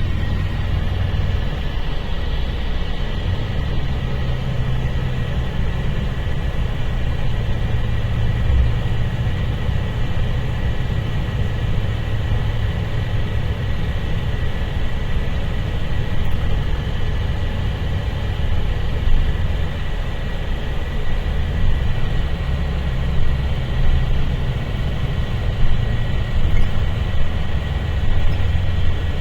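Mercedes-Benz O-500RSD bus engine running with a steady low rumble.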